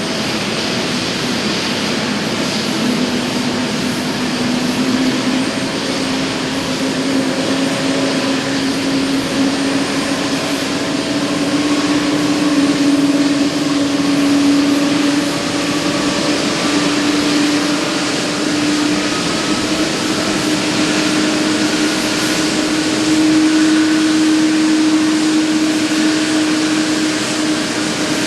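Airbus A321neo's Pratt & Whitney geared turbofan engines running: a steady, loud jet whine over a broad rush, its pitch slowly rising.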